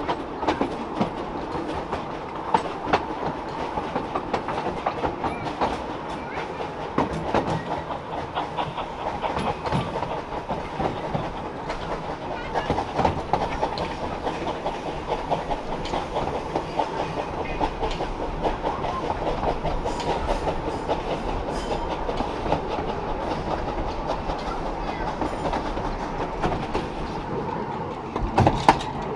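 Two-foot narrow-gauge passenger train running along the line, heard from a coach: a steady rumble of wheels on rail with a dense run of clicks, and a few louder knocks near the end.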